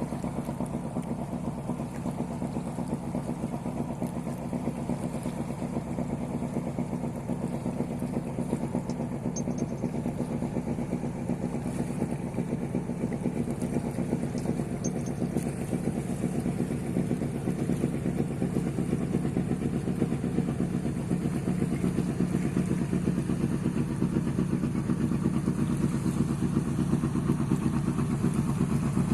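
A fishing boat's engine running steadily with a fast, even chugging pulse, slowly getting louder.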